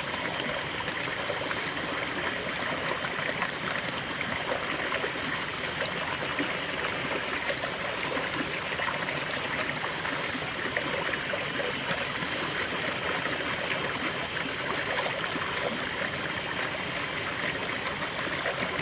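A small waterfall and stream flowing steadily, water splashing and trickling over rocks.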